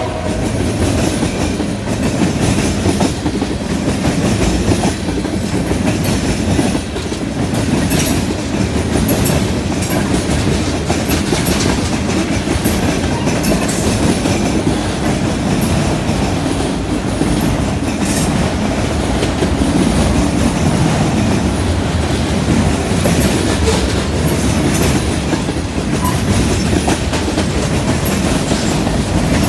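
Freight train cars (tank cars, autoracks and open-top cars) rolling past close by: a steady rumble of steel wheels on rail with constant clickety-clack.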